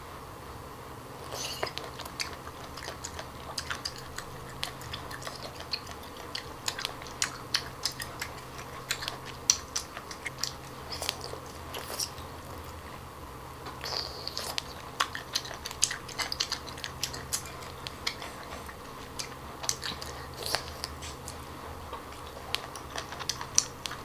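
Close-up chewing of cooked Japanese octopus tentacle: a quick run of short mouth clicks and smacks as it is bitten and chewed, pausing briefly about halfway. The flesh is chewy, having gone tough from being cooked again after it was steamed and frozen.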